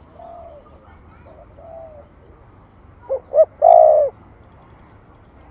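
Spotted dove cooing. A couple of faint coos come first, then about three seconds in a loud call of two short notes and a longer final coo.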